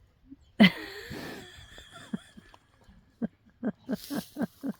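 A horse squeals loudly about half a second in, with a high steady tone lingering for a second or two. Near the end comes a run of short, rhythmic laughs, about four a second.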